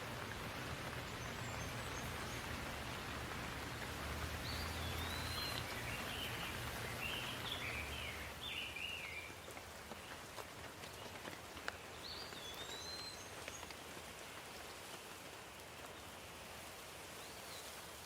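Steady rain falling as an even hiss, with a low rumble under it through the first half. A bird calls in short gliding chirps several times, most of them between about four and nine seconds in.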